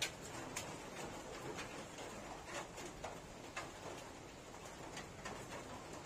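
Eating sounds close to the microphone: chewing with scattered wet mouth smacks and clicks, and fingers working rice on a steel plate.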